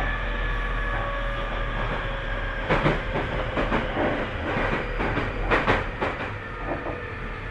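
Tobu 30000 series electric train running: steady motor tones at first, then wheels clacking over rail joints from about three seconds in.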